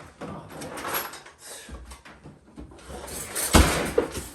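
Rummaging through kitchen cupboards: a door being handled and things being shifted, with a louder rustle ending in a thump about three and a half seconds in.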